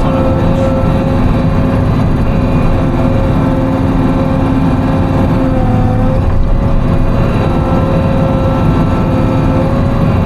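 Diesel engine of a Timberjack 608 tracked forestry machine running steadily under load with a constant whine, heard from inside the cab.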